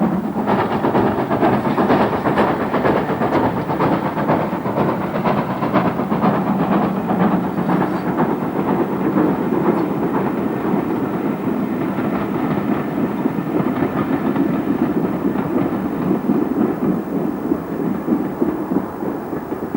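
Great Western Manor class 4-6-0 steam locomotive working hard with a train, its exhaust beating rapidly and steadily.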